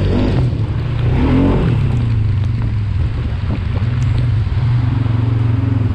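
Four-wheeler (ATV) engine running steadily while riding, with a short rise in revs about a second in.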